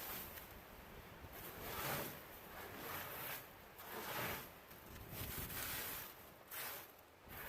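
Irregular rustling and rubbing noises that come in uneven swells a couple of seconds apart, with no clear tone or rhythm.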